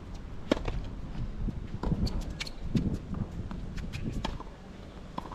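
Tennis ball sharply struck and bouncing, with shoes scuffing on a hard court: a dozen or so short, irregular knocks and clicks. A low wind rumble on the microphone runs underneath.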